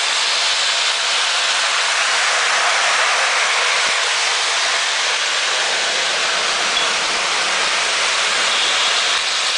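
Polar Express toy electric train set running on its track: a loud, steady hiss-like rushing noise with no clear beat.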